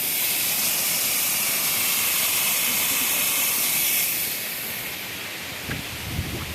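Waterfall rushing, a steady hiss of falling water that is loudest for about the first four seconds and then drops off. A few low bumps come near the end.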